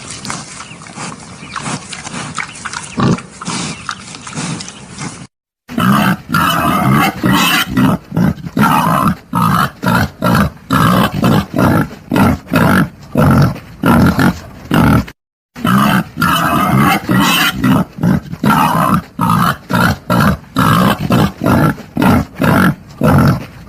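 Wild boar grunting in quick, steady series, about two grunts a second, used as a hunting lure call. The recording cuts out briefly twice, about five seconds in and again about halfway, with a quieter, rougher grunting before the first cut.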